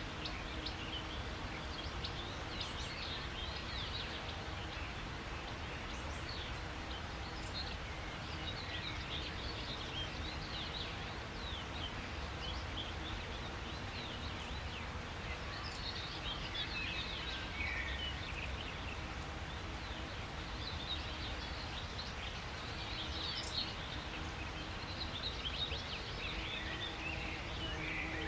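A chorus of small birds chirping and twittering, many short high calls overlapping throughout, over a steady low rumble.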